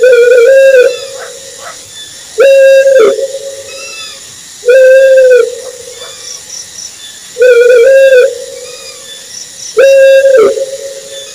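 An owl hooting: five loud, even-pitched hoots, each just under a second long and ending with a short downward slur, repeated about every two and a half seconds.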